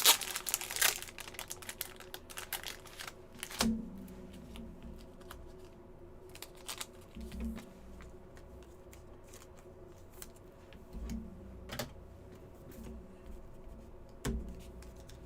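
Trading cards being handled: many light clicks and ticks as cards are flipped and slid through the pack, with a few sharper knocks as the stack is tapped down, about three and a half, twelve and fourteen seconds in.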